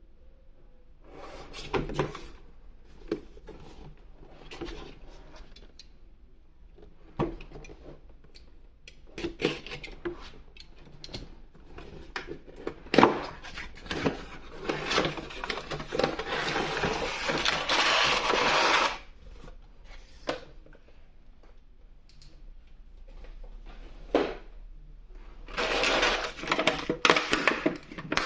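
Toy packaging being handled and opened: scattered clicks and taps of cardboard and plastic, with longer stretches of rustling about halfway through and again near the end.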